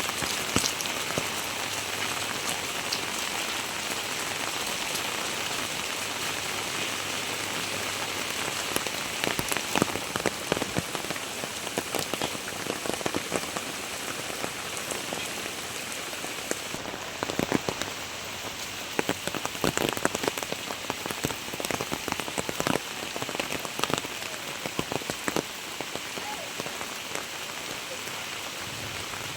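Heavy rain falling steadily, with many sharp, louder drops striking close by, coming thickest in the second half.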